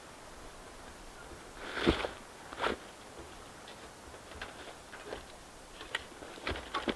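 Scattered soft knocks and clicks, the loudest a thump about two seconds in, with a few more close together near the end.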